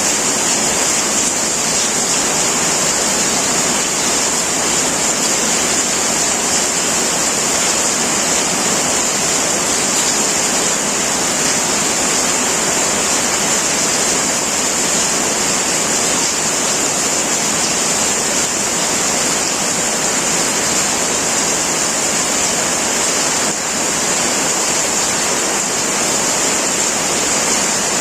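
Heavy rain pouring steadily onto a metal roof: an even, unbroken hiss with a bright high edge.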